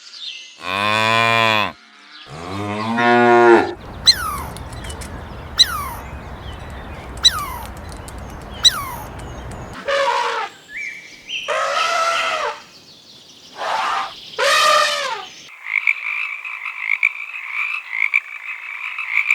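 A cow mooing twice, two long low calls in the first few seconds. After them come four short falling chirps over a steady hiss, several higher-pitched animal calls, and from about 16 seconds a steady trilling chorus.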